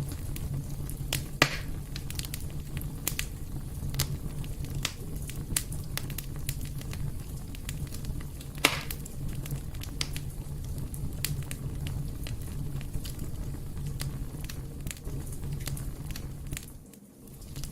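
Wood fire burning in a fireplace: a steady low rumble of flames with frequent sharp crackles and two louder pops, one about a second and a half in and one near the middle. The sound dips briefly near the end.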